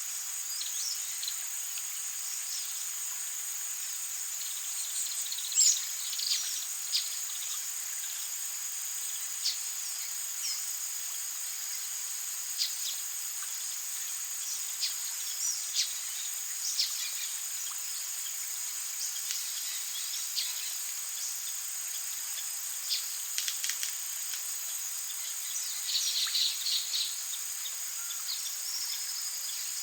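Rainforest soundscape: a steady, high-pitched drone of insects, with short bird chirps and calls scattered over it, a flurry of them near the end.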